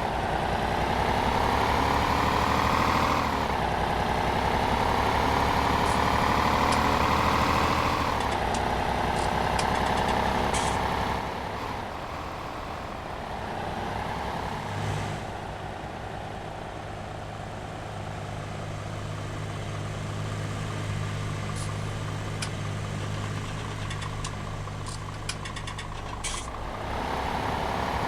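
An old tractor engine, just brought back to life after decades of standing, is revved up three times in the first ten seconds, its pitch climbing each time. It then settles to a lower, steady idle. A scattering of sharp clicks is heard during the idle, and the engine picks up again at the end.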